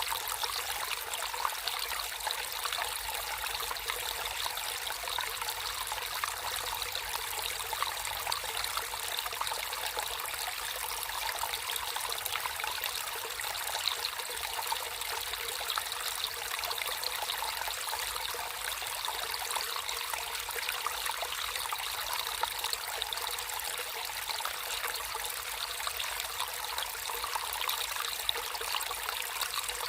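Water flowing and trickling in a small stream, a steady splashing hiss that holds through.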